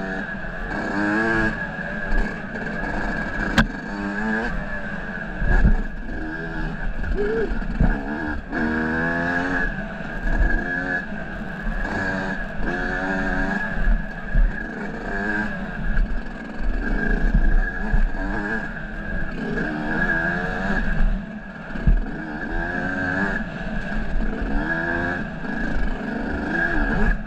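Off-road vehicle engine running under a rider on the trail, its pitch rising and falling over and over as it is revved up and throttled back.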